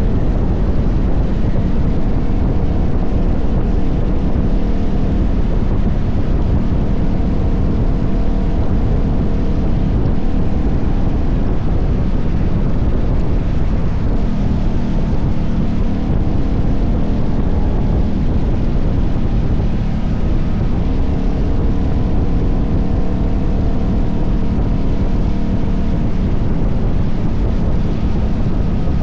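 KTM 1190 Adventure's V-twin engine running steadily on the move, with wind buffeting the microphone.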